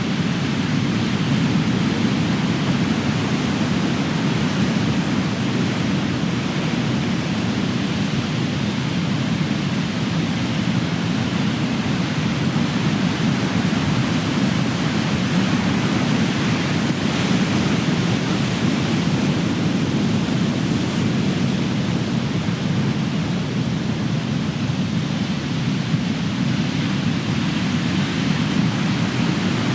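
Big ocean waves crashing, heard as a continuous, fairly even rush of surf with no single crash standing out.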